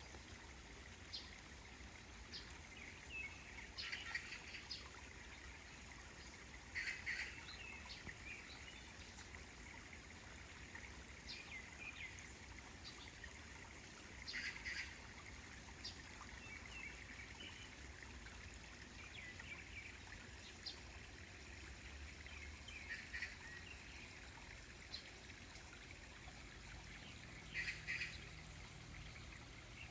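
Birds calling in short chirping bursts every few seconds, over a faint steady background hiss.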